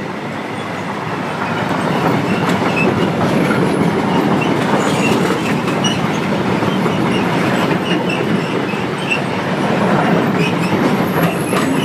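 Container freight train's wagons rolling past at close range behind a Class 66 diesel locomotive: a steady, loud rumble and rush of steel wheels on the rails that builds over the first couple of seconds and then holds, with faint metallic squeals.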